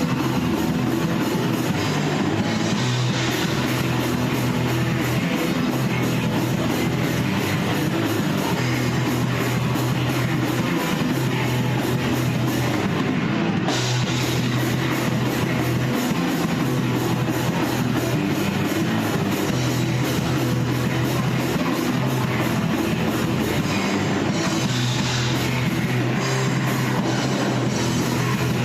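A rock band rehearsing an instrumental passage, with distorted electric guitar over drum kit and bass, playing steadily and loudly.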